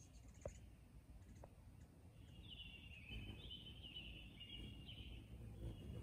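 Faint bird song over low outdoor background noise: a run of chirping notes starts a little over two seconds in and lasts about three seconds.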